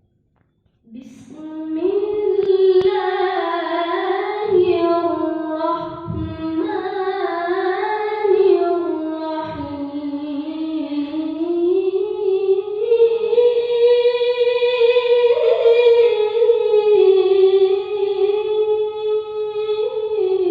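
A solo voice chanting Qur'an recitation in the melodic qiro'ah style, unaccompanied. It holds long, ornamented notes in phrases with brief breaths between them, and climbs higher in pitch through the middle of the passage.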